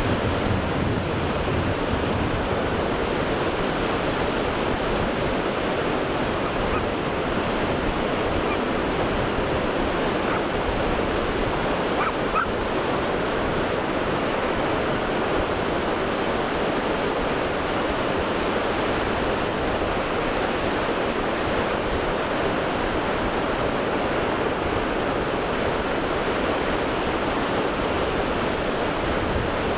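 Pacific Ocean surf: waves breaking and washing in a steady, unbroken roar.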